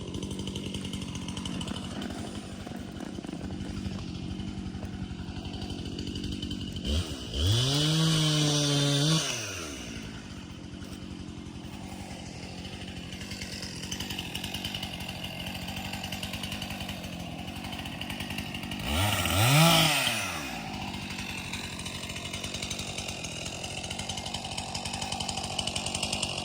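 Chainsaw engine idling steadily, revved up twice: once held for about two seconds, later a shorter blip, each time dropping back to idle.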